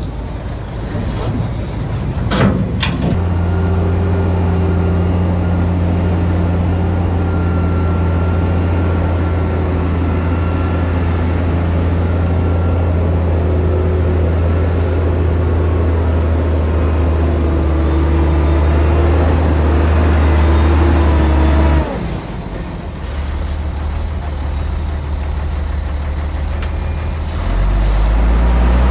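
Heavy diesel engine of earth-moving machinery running under load, a steady low drone that drops back abruptly about three quarters of the way through and picks up again near the end. A couple of sharp knocks come shortly before the engine note sets in.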